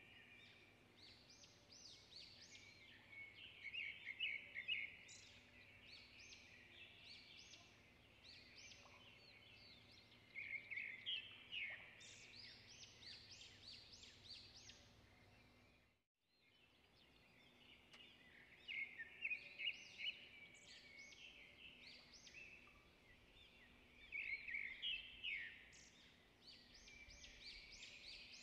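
Faint songbirds chirping and trilling in short bursts every few seconds, cutting out briefly about halfway through.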